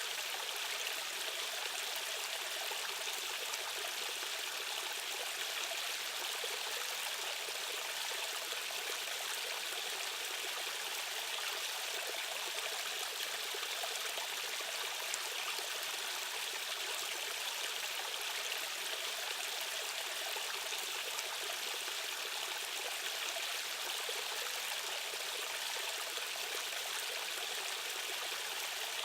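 Rushing stream water running steadily over rocks, an even, unbroken flow with no pauses.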